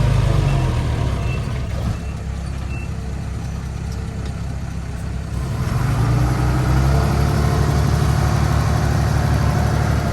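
Heavy diesel machinery engine running. It eases down over the first few seconds and picks up again about five and a half seconds in. Two faint short beeps, typical of a reversing alarm, come in the first three seconds.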